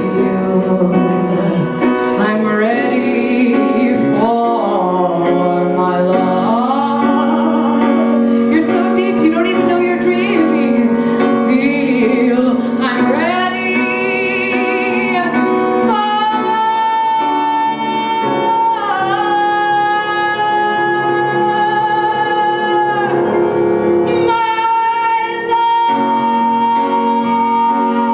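Female vocalist singing a slow ballad live over piano, first in wavering, gliding phrases, then holding long high notes through the second half.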